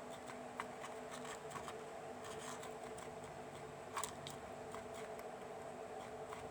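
Faint, irregular small clicks and taps over a steady low hum, with one slightly louder click about four seconds in.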